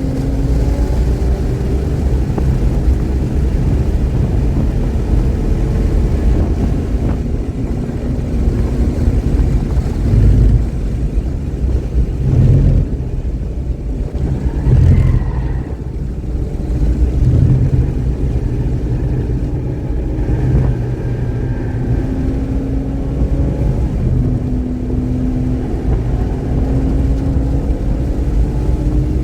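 Car engine at speed on a race track, the pitch climbing steadily as it pulls through the revs over a heavy low rumble. Around the middle the pitch breaks up, with a few short loud peaks, then it climbs again. It runs clean, without misfiring.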